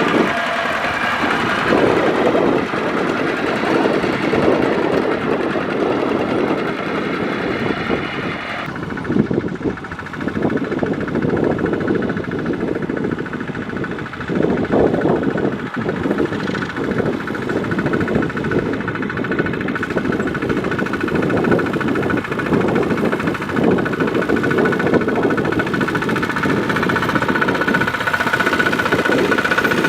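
Kubota DC-70 Plus combine harvester's diesel engine and threshing machinery running steadily under load, a dense mechanical din throughout.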